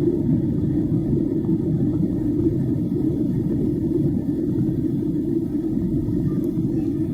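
Steady low rumble of airliner cabin noise, the even drone of engines and airflow heard inside the passenger cabin.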